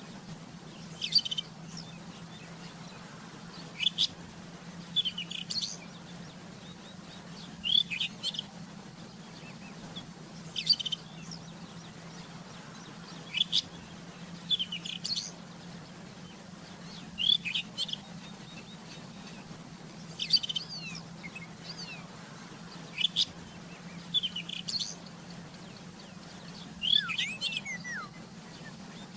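Rufous-tailed scrub robin singing: short bright song phrases repeated every two to three seconds, a few ending in falling slurred notes near the end, over a steady low hum.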